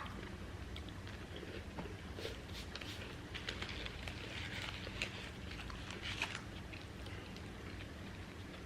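Chewing and soft mouth sounds of people eating burgers: scattered small wet clicks and crackles over a low steady hum.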